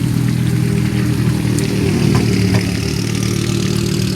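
Historic rally car engine idling steadily, a low, even engine note.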